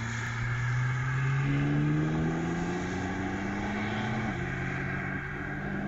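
Car engine running on the track, heard from trackside. Its pitch climbs slowly as it accelerates, then drops about four seconds in.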